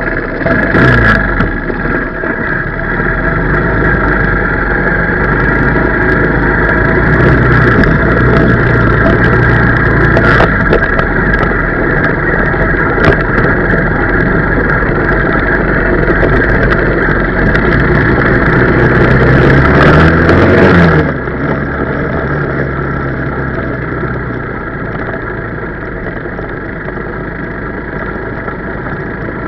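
125cc four-stroke pit bike engine running while the bike is ridden, its pitch shifting a little with the throttle. About 21 seconds in it drops to a lower, quieter note, as when the throttle is closed.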